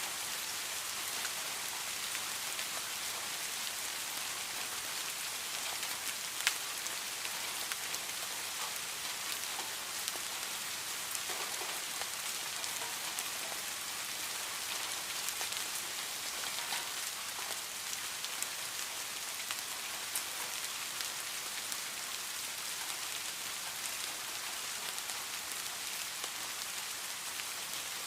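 Steady rain falling, an even hiss with scattered sharper drop ticks throughout; no thunder.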